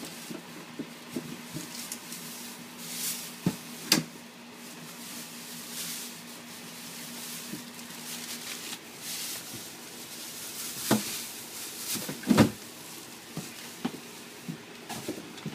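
Scattered knocks and clatters of things being handled in and around a refrigerator, with the louder knocks about 4 s in and twice near the end, over a steady low hum.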